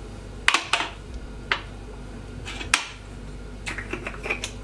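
A teaspoon clicking and tapping against spice containers and a bowl as seasoning is measured onto a chicken: a few sharp separate ticks, with a quick cluster of them near the end.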